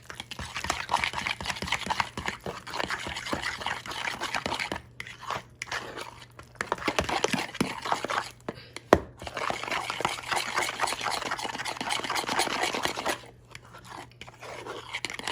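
A utensil stirring a thick, wet ricotta, egg and Parmesan mixture in a bowl: rapid steady clicking and squishing with a few short pauses, and one sharper knock on the bowl about nine seconds in.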